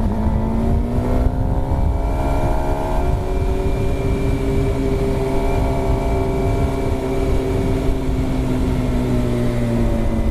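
Motorcycle engine running at a steady road speed. Its pitch rises over the first second or two, holds, then eases down slightly near the end, over a steady low rumble.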